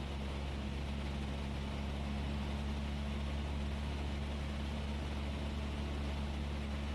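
Cessna 172S's four-cylinder Lycoming engine and propeller droning steadily in flight, heard in the cabin: a constant low hum with an even rush of air over it.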